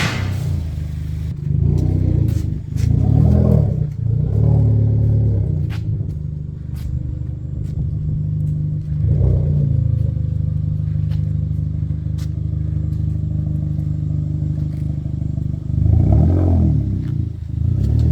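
Vauxhall Corsa VXR's 1.6-litre turbocharged four-cylinder running through an aftermarket cat-back exhaust, ticking over at low revs and rising in short revs about two seconds in, again around three seconds, near nine seconds and near sixteen seconds.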